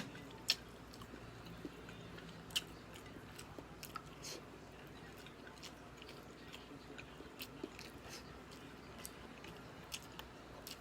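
Close-miked chewing and biting: irregular wet mouth clicks and crunches, the loudest about half a second in and again at about two and a half seconds.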